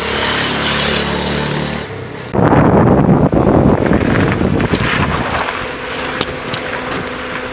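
A motor vehicle's engine running steadily. About two seconds in, a sudden loud, choppy rushing noise takes over and then settles into a steadier rumble.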